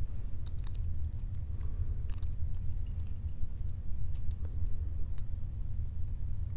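Small, irregular metallic clicks and scrapes of a lock pick and tension wrench working the pins of a Guard 445 padlock that is stuck in a deep false set, over a steady low hum.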